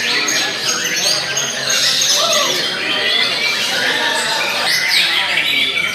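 Several white-rumped shamas singing at once: loud, overlapping whistled phrases with fast rising and falling notes, under a murmur of people's voices.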